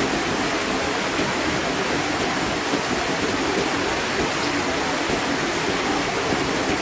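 Water from a garden fish pond's waterfall pouring and splashing steadily into the pond.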